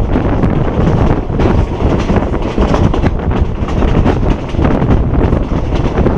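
Loud, steady rush of wind buffeting the microphone at an open carriage window, over the rumble of the moving passenger train's wheels on the rails.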